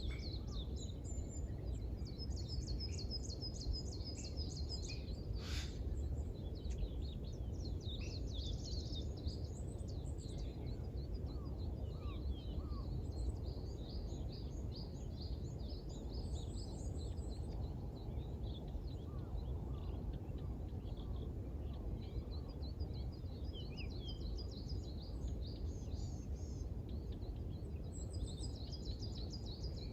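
Songbirds chirping and twittering in quick repeated trills, over a steady low background rumble. A single sharp click sounds about six seconds in.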